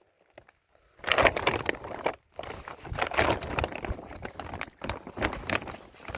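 Plastic sheeting rustling and crinkling as it is handled, in irregular bursts that start about a second in.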